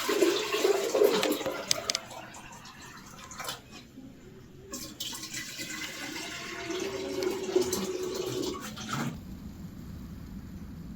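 Water pouring and splashing in two long bursts of about four seconds each.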